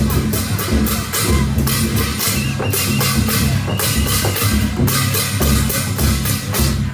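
Drums and percussion playing a steady, loud beat.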